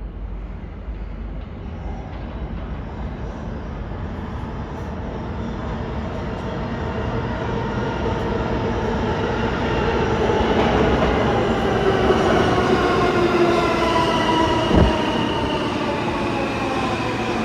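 New York City subway train pulling into the station, growing louder for about twelve seconds, with several whining tones that fall in pitch as it slows. A single short knock comes near the end.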